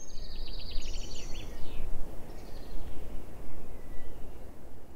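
Small birds singing in quick high chirps and trills for the first couple of seconds, fading out, over a continuous low rumble.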